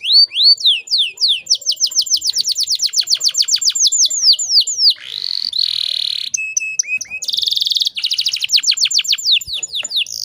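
Domestic canary singing: fast trills of sweeping downslurred whistles, several notes a second, broken by short buzzy phrases around the middle.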